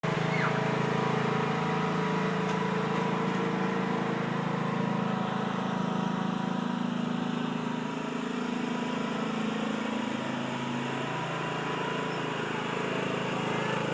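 Riding lawn mower engine running steadily as it is driven, its note sagging briefly about eight seconds in and settling again a couple of seconds later.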